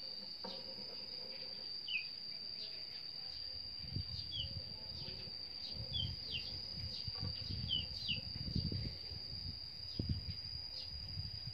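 A steady high-pitched whine runs throughout, and short falling bird chirps come every second or two. From about four seconds in there is also an irregular low rumble.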